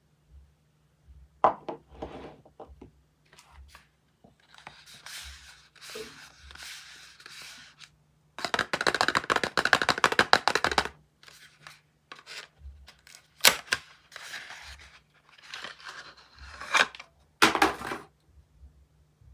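Soap bar packaging being unwrapped by hand: wrappers rustling and tearing, with light taps and clicks as the bars are handled, and a longer stretch of dense crackling tearing about halfway through.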